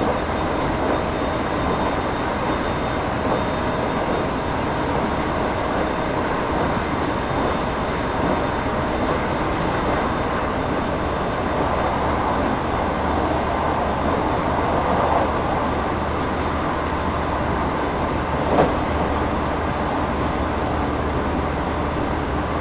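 Inside the cabin of a JR 313 series electric train's motor car (KuMoHa 313-4), a steady running noise of wheels on rail, with one short, sharp knock about three quarters of the way through.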